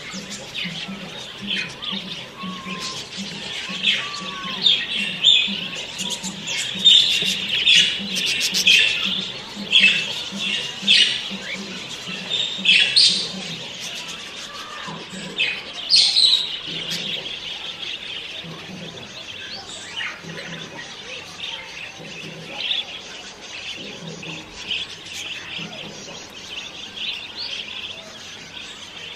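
Many birds chirping and calling in short, repeated notes, busiest in the first half and thinning out after about seventeen seconds.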